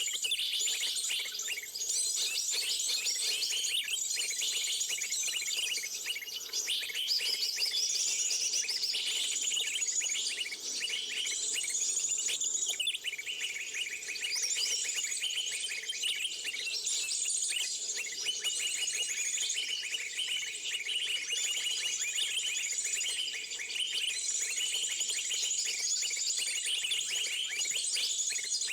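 Many small birds chirping densely and without pause, high-pitched twittering calls overlapping one another.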